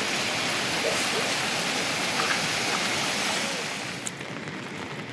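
Heavy rain falling, a dense steady hiss that drops off noticeably about four seconds in.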